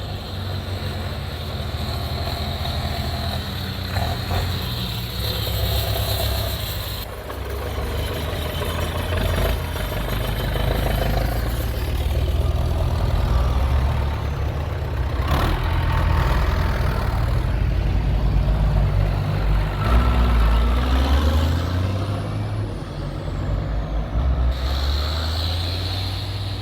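Tractor engines running, with most of the sound in a low rumble that rises and falls.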